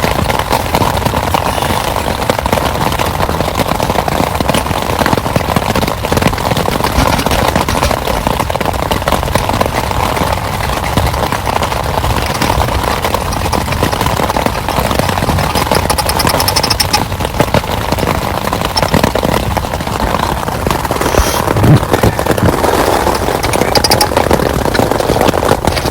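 Heavy rain, a dense steady patter of drops.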